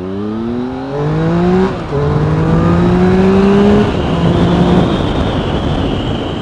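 2014 Triumph Tiger 1050 Sport's inline-triple engine, breathing through a freshly fitted SC-Project aftermarket exhaust, accelerating away. The revs climb, drop at a gear change about two seconds in and climb again, and there is another change near four seconds. The engine note then fades into a steady rush of noise.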